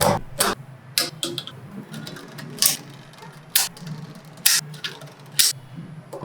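Small magnetic balls clicking sharply into place as they are snapped onto a model, one click roughly every second, over a faint low hum.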